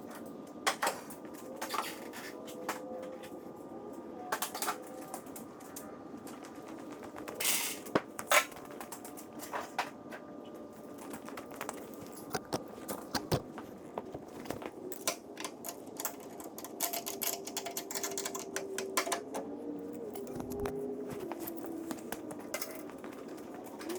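Irregular light clicks and taps of hand work with tools and small hardware, over a steady background noise.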